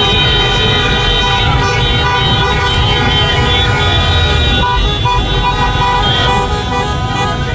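Many car horns honking at once, long held blasts at several pitches layered together, over the steady rumble of road traffic.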